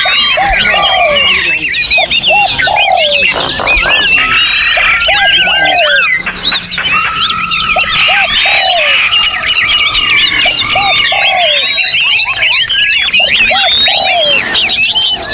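Dense chorus of many songbirds singing over one another with whistles, chirps and trills, among them laughingthrushes, bulbuls and magpie-robins or shamas. A lower, hooting note repeats in short runs of two or three throughout.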